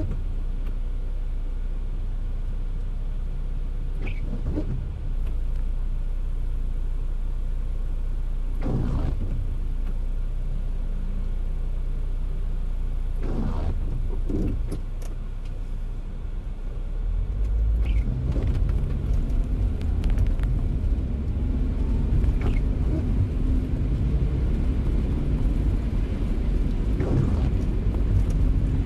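Car driving in the rain: a steady low rumble of tyres and engine on a wet road, with a few brief swishes. It gets louder and rougher a little past halfway.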